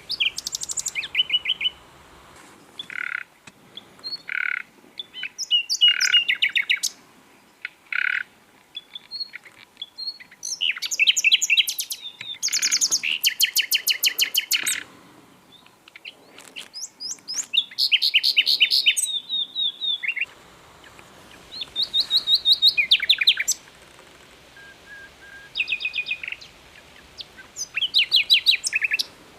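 Common nightingale singing a run of separate short phrases with pauses between them. The phrases mix fast trills of repeated notes with single pure whistled notes, a few of which come one after another early on.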